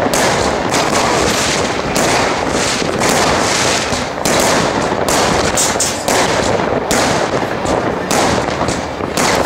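Fireworks: a dense, unbroken rattle of bangs and crackles from many rockets and firecrackers going off at once.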